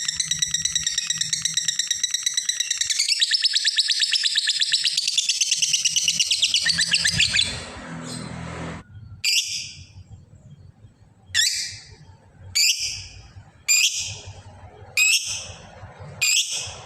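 Lovebird giving its long rapid chattering trill (the 'ngekek'), which stops about seven seconds in. It then gives a run of short, sharp, high calls about a second apart.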